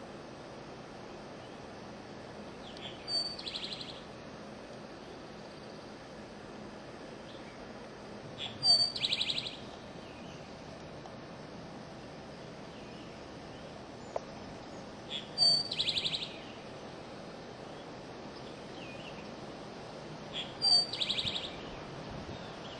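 A bird singing four times, about six seconds apart: each song is a sharp high note followed by a short, rapid trill. A steady background hiss runs underneath.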